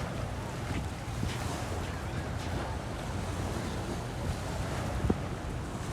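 Wind buffeting the microphone with a low rumble, over a steady wash of sea waves.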